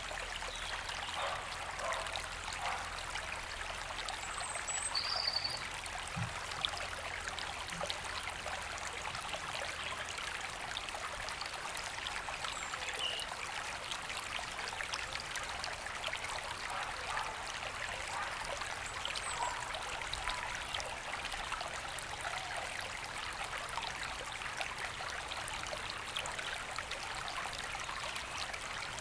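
A river running steadily over stones, with a few short, high bird chirps in the trees above.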